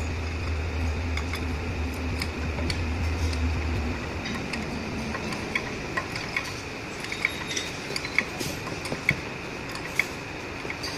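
Irregular light metallic clinks and taps of hand tools on metal parts, over a steady low hum that stops about four seconds in.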